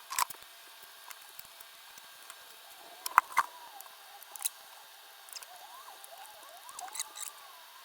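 A few sharp clicks and knocks of small objects being handled, the loudest a double click about three seconds in, over faint, squeaky chirps that bend up and down in pitch.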